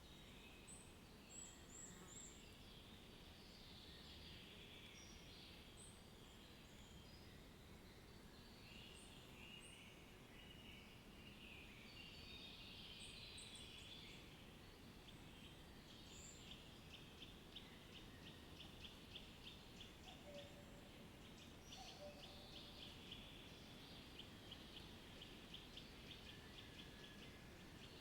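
Faint birdsong: several birds chirping and warbling over a soft background hiss, with one bird giving a rapid, evenly repeated trill through the second half.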